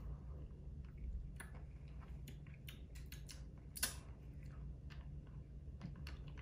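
Faint chewing of Juicy Drop bubble gum, with scattered small wet mouth clicks and one sharper click just before four seconds in.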